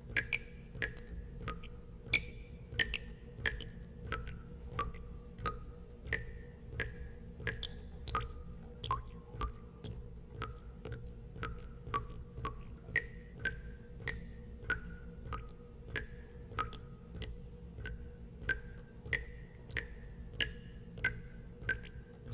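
Water drops falling one after another into water, about two a second, each a short plink at a varying pitch, over a steady low hum.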